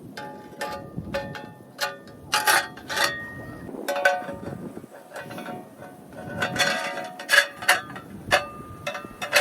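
Metal pieces being handled and knocked together: a series of irregular clinks and clanks, each ringing briefly.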